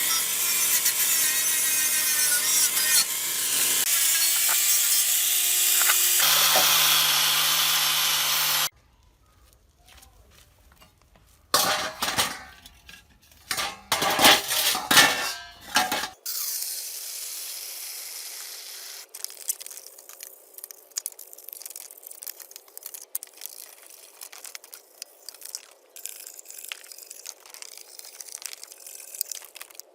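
Hand and power tool work on metal parts, in several short cuts: a loud, steady rasping noise for the first eight seconds or so, stopping suddenly. After a short lull come a handful of loud strokes, then quieter scattered clicks and rubbing.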